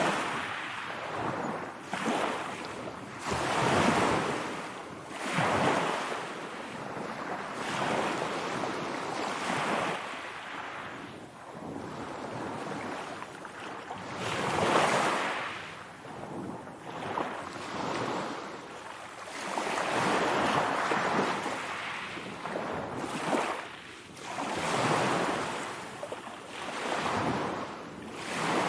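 Ocean waves washing in and drawing back, each swell rising and fading every few seconds.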